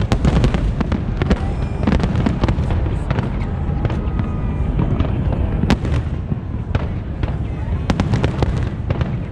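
Large aerial fireworks display: shells bursting in rapid, irregular succession, many sharp cracks over a continuous low rumble of booms.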